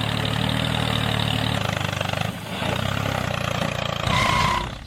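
An engine running steadily, with a brief dip about two seconds in and a short high tone near the end.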